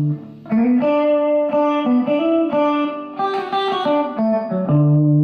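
Electric guitar playing a single-note country lick down a D major arpeggio, with a couple of sliding notes. It ends on a low note held for over a second.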